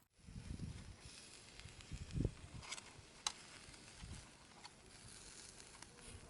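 Campfire burning quietly: a faint hiss with a few sharp crackles, the sharpest about three seconds in, and some soft low thumps.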